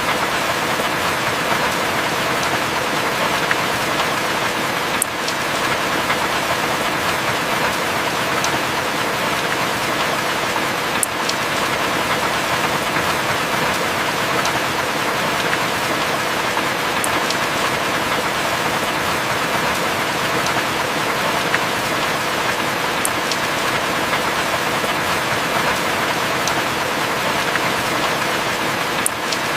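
Heavy rain falling steadily as a dense, even hiss, with a few sharp ticks from single drops scattered through it.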